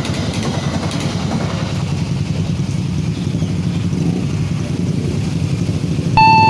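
Steady, loud low rumble of a train passing close by at a railway level crossing. A clear, pitched electronic tone starts just before the end.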